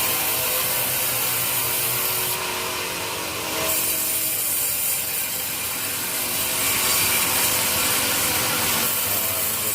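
Sawmill saw running and cutting teak wood: a loud, steady mechanical noise with a hissing top and a few constant tones underneath.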